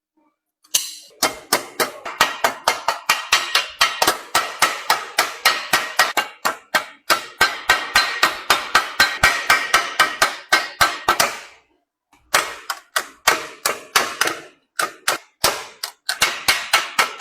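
Hand hammer striking copper sheet metal in quick, steady blows, about three to four a second, each with a short metallic ring. The hammering breaks off briefly about twelve seconds in, then resumes.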